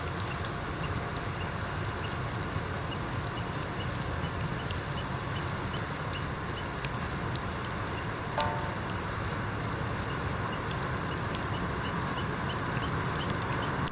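Firewood crackling and popping in a stainless steel fire pit: irregular sharp snaps over a steady low rushing background. A short pitched call sounds once a little past halfway.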